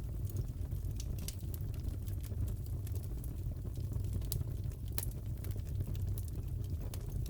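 Fire crackling in a fireplace: a steady low rumble of the flames with scattered sharp pops and snaps.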